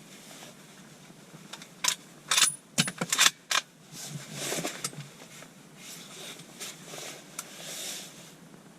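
A quick run of sharp clicks and clatters lasts about two seconds, starting about two seconds in, followed by softer rustling: something hard being handled at close range.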